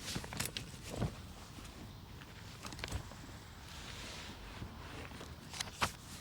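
A few scattered light knocks and clicks, with a brief soft rustle about four seconds in, as of small movements and handling close to the microphone.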